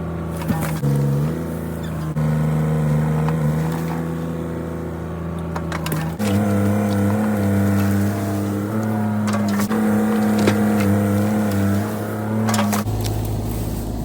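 Bobcat E32 mini excavator's diesel engine running under hydraulic load, its pitch shifting as the machine works and dropping about six seconds in, with scattered sharp knocks.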